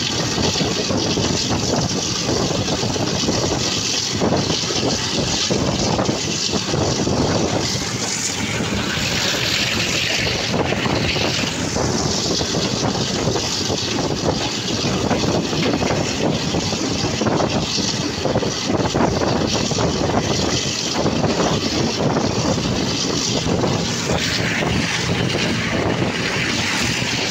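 Steady rush of a passenger train running at speed, heard from an open coach window: wheels rolling on the track with an irregular clatter, mixed with wind on the microphone.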